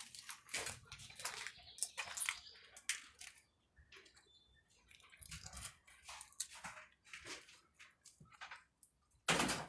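Footsteps crunching and scuffing over debris on a floor: a scattered run of faint crackles and taps, with a louder noisy burst near the end.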